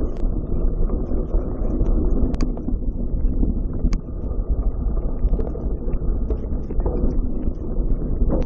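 Wind buffeting the microphone over a steady low rumble, with scattered sharp clicks and knocks.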